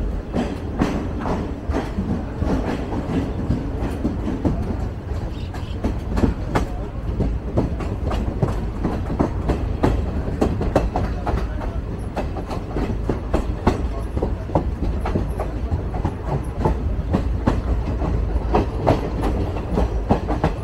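Train running, heard from on board: a steady low rumble with many irregular clicks of the wheels over the rails.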